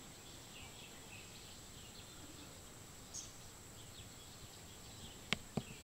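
Faint outdoor ambience: a steady high-pitched insect whine with scattered soft chirps. Two short clicks come near the end.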